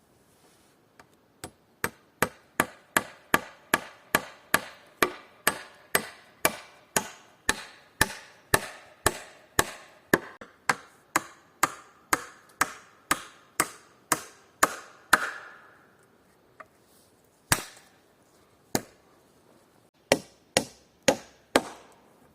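Rapid, steady hammering, about three sharp strikes a second for some thirteen seconds. After a pause come a few single strikes, then a quick cluster near the end.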